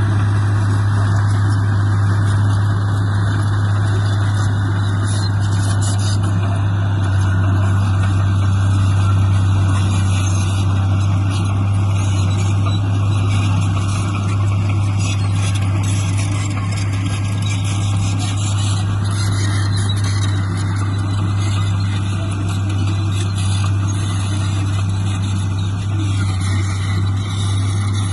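Heavy diesel engine of earthmoving machinery running steadily with a strong low hum.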